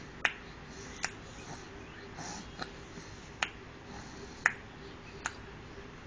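A baby of about three and a half months making clicking sounds with the mouth: single sharp clicks, unevenly spaced, roughly one a second.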